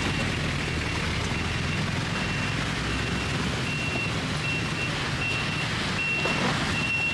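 A vehicle's reversing alarm beeping at an even pace, about one and a half high beeps a second, over a steady low rumble of engine and traffic.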